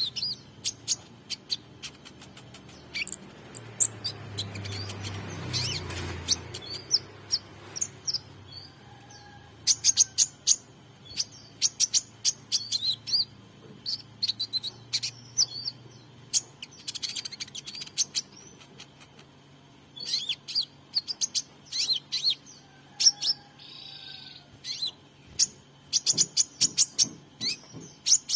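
Young sunbird practising its song: spurts of sharp, high chirps and short twittering phrases with pauses between them. A faint low hum runs underneath, and a brief rushing noise comes about five seconds in.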